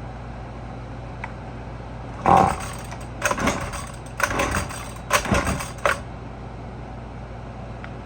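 Husqvarna 128LD string trimmer's two-stroke engine pull-started four times in quick succession, each pull a short whirr of the recoil cord cranking the engine over. The engine does not catch, because the trimmer won't start.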